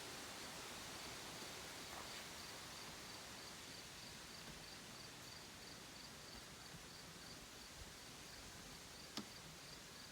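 A cricket chirping steadily, a thin high pulse repeating about three times a second over a faint outdoor hiss. A single sharp click about nine seconds in.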